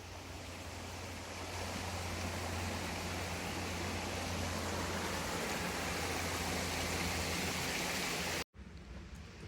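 A small woodland stream running: a steady rush of water that grows louder over the first couple of seconds, then holds even and cuts off suddenly near the end.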